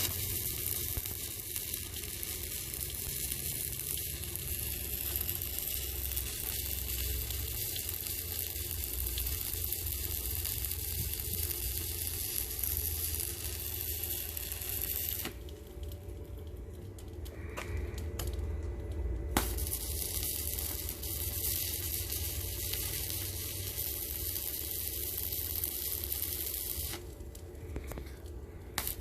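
Stick-welding arc crackling and sizzling steadily as a bead is run along a steel seam. It stops about fifteen seconds in, a single sharp click comes a few seconds later, and a second run of the same sizzle lasts about seven seconds.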